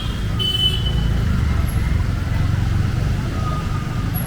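Street traffic with a motor vehicle's engine running close by as a steady low rumble, and one short horn toot about half a second in.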